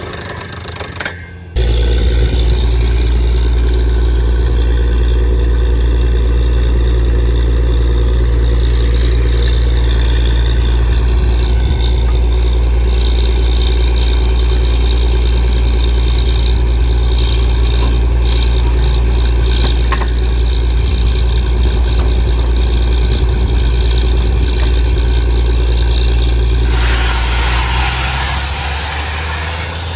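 Borewell drilling rig running: a loud, steady engine drone that starts suddenly about a second and a half in. Near the end a rushing noise joins it and the drone eases off.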